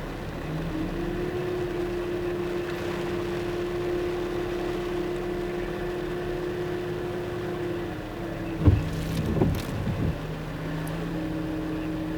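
Truck engine running at a steady pitch, heard from inside the cab; the pitch steps up slightly about a second in. About three-quarters of the way through comes a knock, followed by a couple of seconds of brief wavering sounds, before the steady hum returns.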